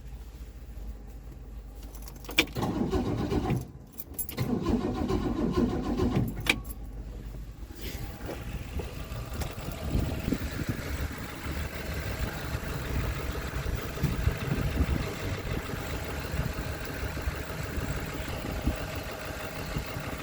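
1964 Mercury Comet Caliente's engine being started on the starter: a click about two seconds in, then two loud stretches of cranking and firing, the second lasting a few seconds, before it runs on more quietly. This is the engine's first start after its restoration.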